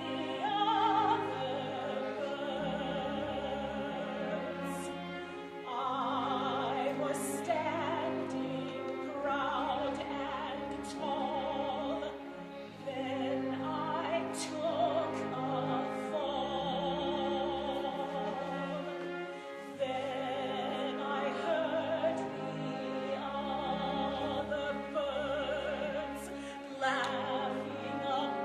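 Operatic singing with a wide vibrato over an instrumental accompaniment, in long sustained phrases with short breaths between them.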